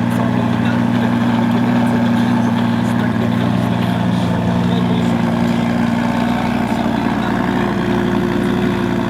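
A car engine idling steadily, its tone shifting slightly about two-thirds of the way through.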